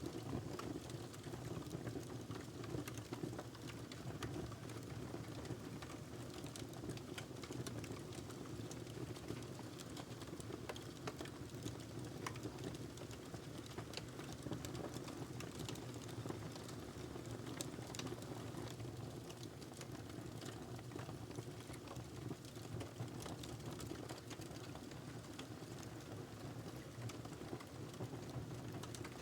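Wood fire crackling: a steady low rush of burning with frequent small, irregular pops and snaps.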